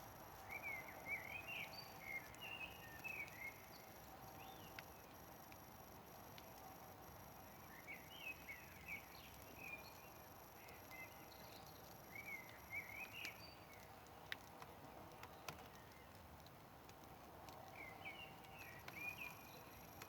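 Faint songbird phrases of quick chirping notes, four short bursts a few seconds apart, over a quiet campfire with a few sharp single crackles.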